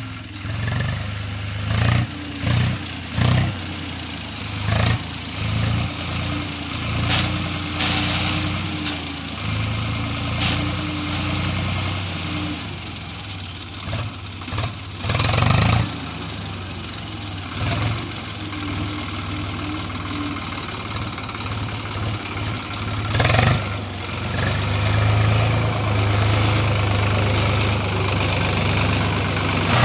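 Tractor engine running steadily, with frequent short knocks and rattles throughout.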